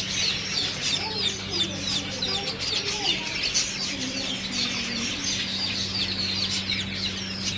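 A crowd of chicks peeping at once, a dense high chatter of short calls, with lower clucking calls underneath and a steady low hum.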